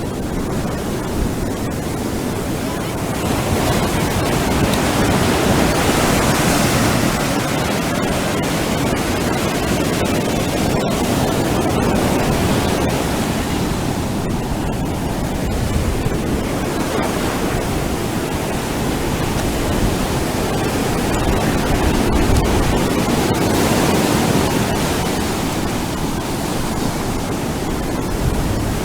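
Ocean surf breaking on a beach: a continuous rushing wash of waves that swells louder and eases off in slow surges.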